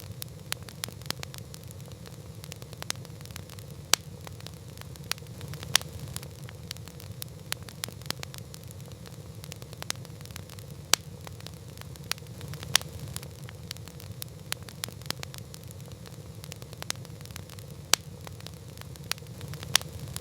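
Campfire crackling: a dense run of small irregular crackles with a louder, sharper pop every few seconds, over a steady low rumble.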